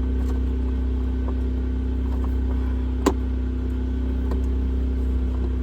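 A portable generator running with a steady low engine hum, and a single sharp click about three seconds in.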